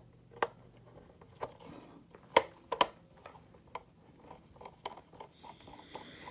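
Scattered light clicks and taps of small hard objects being handled, about a dozen of them at uneven intervals, with two sharper ones a little over two seconds in and just before three seconds.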